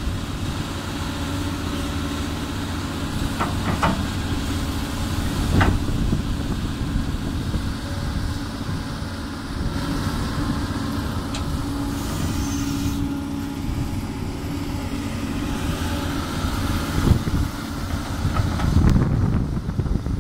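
Doosan DX200 excavator's diesel engine running steadily while it works, with a few sharp knocks about four to six seconds in.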